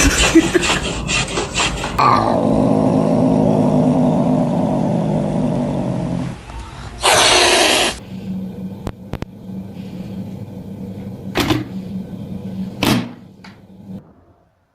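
A pet growling low for a few seconds, with other short sounds around it: rubbing at the start and a few sharp clicks near the end.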